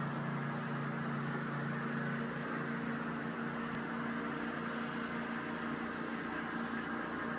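A steady motor hum over a hiss, unchanging throughout.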